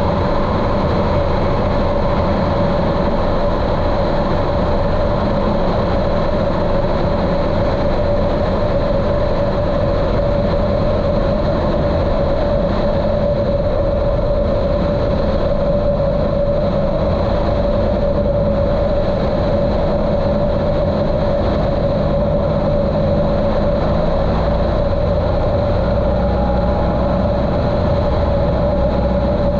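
Cessna 150L's Continental O-200 engine and propeller droning steadily in flight, heard muffled through a waterproof camera housing. The engine note stays even throughout.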